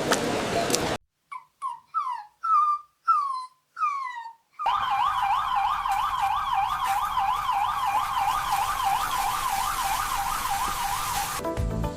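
A puppy barking, about six short high yelps that each fall in pitch, then an ambulance siren wailing up and down fast, about three times a second, over a steady hiss, cutting off shortly before the end.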